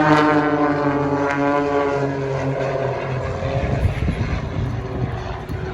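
Propeller-driven aerobatic aircraft flying past. Their engine drone slides down in pitch over the first couple of seconds as they go by, then turns into a rougher, noisier rumble.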